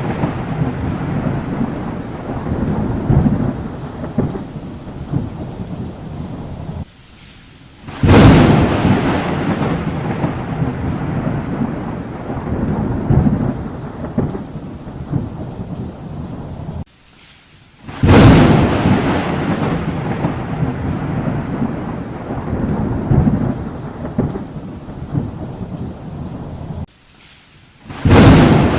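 Thunderstorm with steady rain, and a loud thunderclap about every ten seconds that rolls off into a long rumble. A brief sudden dropout comes just before each clap.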